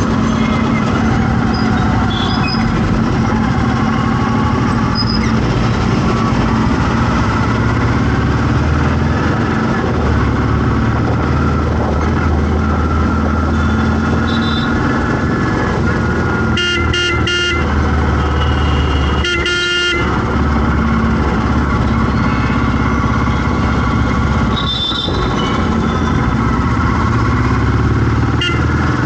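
Road traffic: engines running steadily, with a vehicle horn giving several short toots about two-thirds of the way through, then a longer blast a couple of seconds later.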